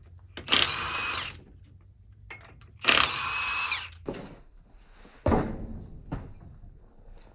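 Power wrench running in two bursts of about a second each on the rear wheel lug nuts of a Ford truck, its whine dropping in pitch as each burst stops. Two sudden clunks follow.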